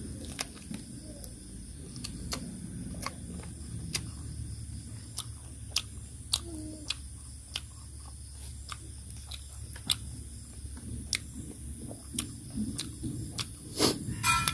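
Close-up eating sounds of boiled chicken gnawed and chewed off the bone by hand: wet chewing and lip smacking with many sharp, irregular clicks, which grow denser and louder near the end.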